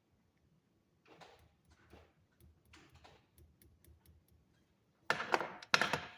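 Handling of copper wire and small hand tools at a workbench: a few soft rubbing sounds, then two louder scraping, rustling bursts near the end.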